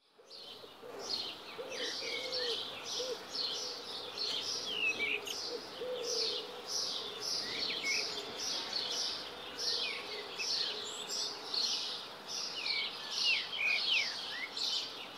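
Birds chirping continuously: a dense run of short, high calls overlapping one another, with a few lower warbling notes. It fades in over the first second.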